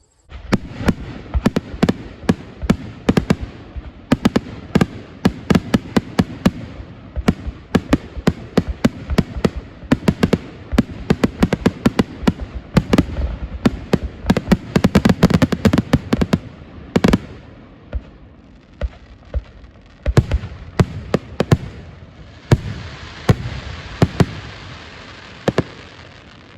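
Fireworks going off: a rapid, dense string of sharp bangs and crackles that thins out to scattered bangs after about two thirds of the way through.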